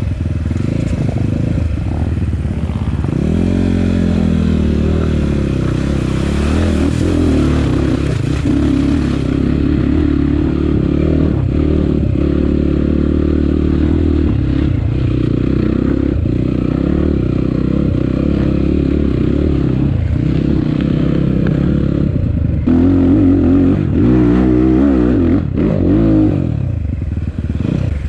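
Enduro motorcycle engine running under way on rough ground, with clatter and scraping from the bike. It revs up about three seconds in and runs louder with rising and falling revs near the end.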